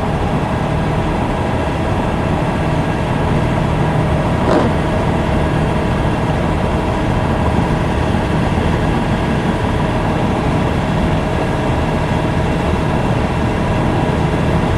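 Steady road and engine noise heard inside a vehicle.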